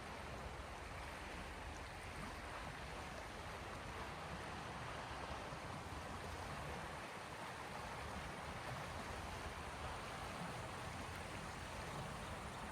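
Small sea waves washing on the shore, a steady, even hiss of water with no separate breakers standing out.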